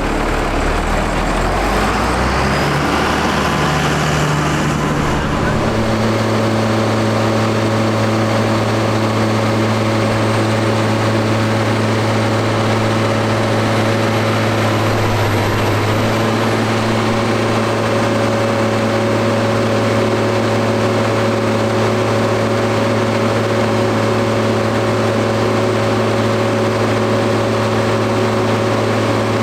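A McCormick X7.670 tractor's diesel engine on a PTO dynamometer. Its speed climbs in steps over the first few seconds, then it holds a steady high-speed drone, with a brief dip in pitch about halfway through.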